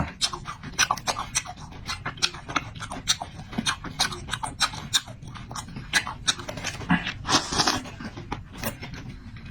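Close-miked eating sounds: a person chewing with quick, irregular wet mouth clicks and smacks, and a short breathy slurp or breath about seven seconds in.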